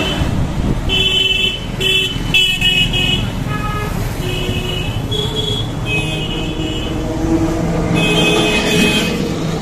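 Busy road traffic with engines running and many short horn beeps of different pitches from several vehicles, tooting again and again.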